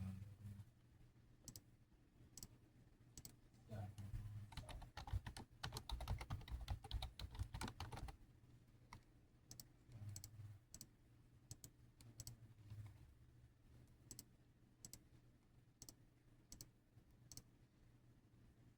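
Faint clicking and tapping: a run of rapid taps with low thumps between about four and eight seconds in, and single sharp clicks about once a second elsewhere.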